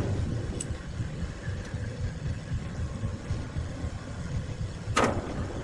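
A motor running steadily with a low rumble, with one sharp knock about five seconds in.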